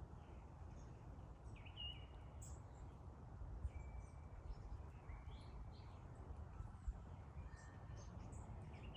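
Sparrows chirping faintly: scattered short, high chirps with a few brief held notes, over a steady low background rumble.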